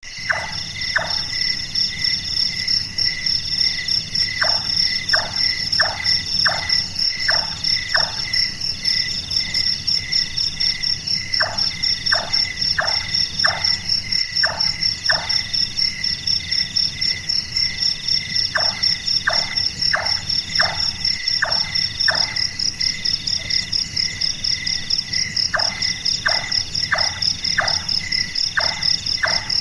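Large-tailed nightjar giving its knocking 'chonk' calls that sound like hammering carpentry, in runs of about six quick notes, a run every few seconds. A steady chorus of crickets and other insects trills throughout.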